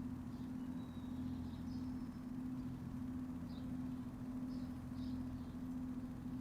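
Backyard ambience: a steady low hum with a low rumble under it, and faint short bird chirps scattered through.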